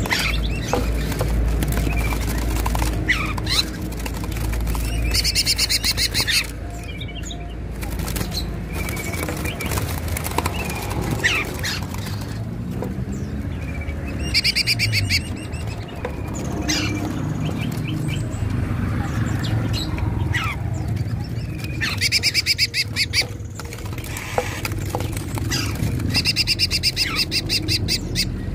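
Small songbirds chirping with short sharp calls, broken four times by a fast high-pitched trill lasting about a second, over a steady low hum.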